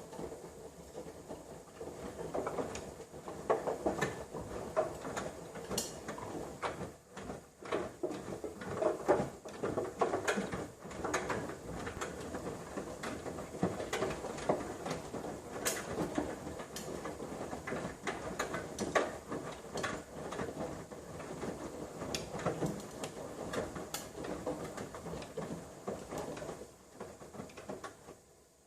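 Front-loading washing machine tumbling wet laundry in its drum: water sloshes while the clothes fall and clatter irregularly, with small clicks of fastenings against the drum. The sound cuts off suddenly at the end.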